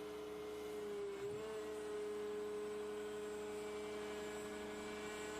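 Excavator engine and hydraulics running with a steady hum of several held tones; about a second in the pitch sags briefly and recovers, as when the engine takes a hydraulic load.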